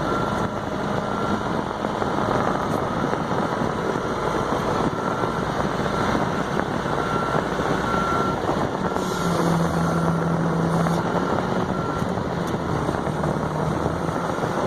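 Forklift engine running steadily as the machine is driven and turned with a load on its forks. A deeper hum swells for about two seconds around nine seconds in.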